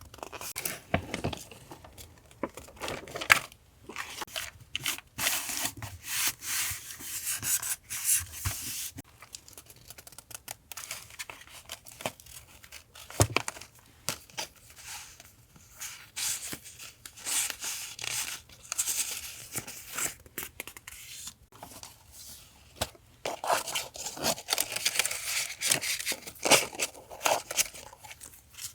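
Paper being handled for collage journaling: irregular rustling, rubbing and tearing strokes, with a couple of sharp clicks.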